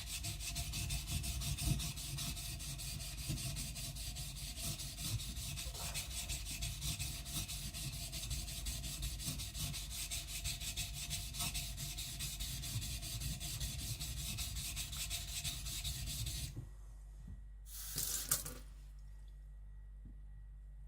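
Kiridashi blade scraped back and forth on a wet whetstone in quick, even strokes, grinding its bevel flat and thin. The strokes stop suddenly about 16 seconds in, and a brief scrape or rustle follows a second later.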